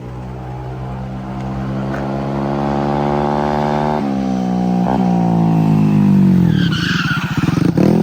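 Moped engine revving, its pitch climbing steadily, then the rear tyre squealing near the end as it spins in a burnout.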